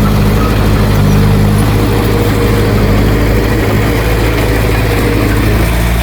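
Heavy diesel engine of earthmoving machinery running steadily, its low hum holding an even pitch with small shifts about two and four seconds in.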